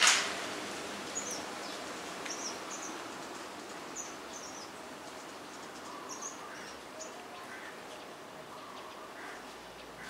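A sudden loud rush of noise right at the start, then a string of short, high bird chirps, several coming in quick pairs, over a steady background hiss.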